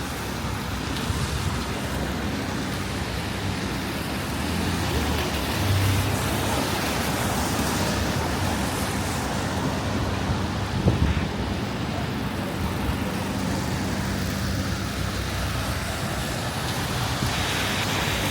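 Steady city street traffic on wet roads: a wash of tyre and rain noise with low engine hum from passing vehicles, swelling about six seconds in, and a brief knock about eleven seconds in.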